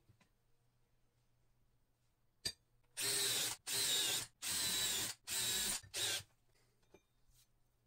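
A metalworking tool worked in four short, noisy bursts of about half a second each, with a brief gap between them, after a single click.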